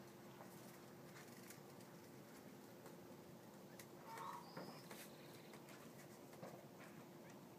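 Near silence: quiet outdoor ambience with a faint steady hum, and brief faint distant bird calls about four seconds in.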